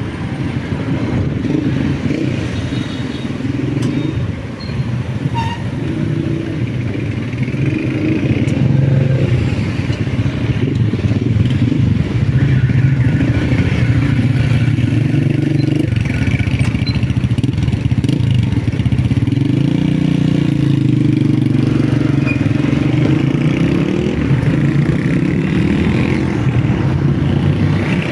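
Motorcycle engine running while riding, its note rising and falling several times as the bike speeds up and slows.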